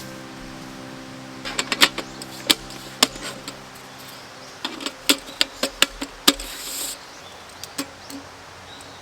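A run of sharp clicks and knocks, about a dozen, over a steady low hum, with a brief hiss near the end.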